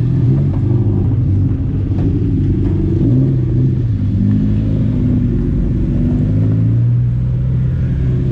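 Several race car engines running at once at fairly low revs, their pitches wavering up and down and overlapping.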